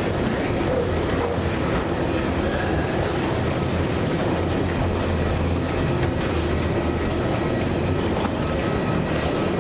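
Steady rumble of a vehicle in motion, heard from inside it.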